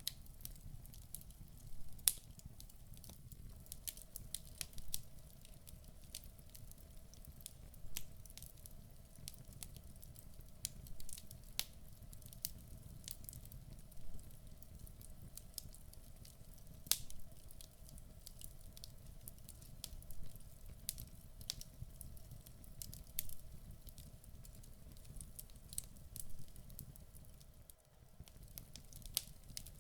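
Wood fire burning in a fireplace: a low steady rumble with frequent irregular sharp crackles and pops from the burning logs.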